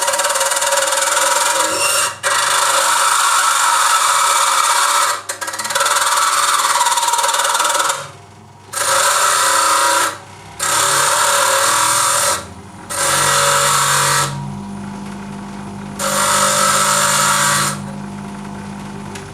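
A power tool running in loud bursts: one long run of about eight seconds, then four shorter bursts of one to two seconds each, starting and stopping sharply. A low steady hum comes in about two thirds of the way through.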